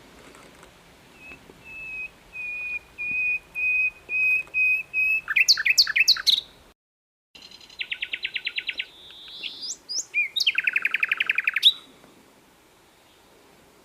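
Sikatan londo flycatcher singing. A series of level, clear whistled notes about two a second grows louder, followed by quick swooping notes and then two rapid trills. The song stops about two seconds before the end.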